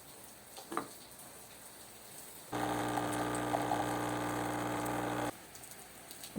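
A steady electric hum, as of a small appliance motor, runs for about three seconds, starting and cutting off suddenly, over a faint background hiss.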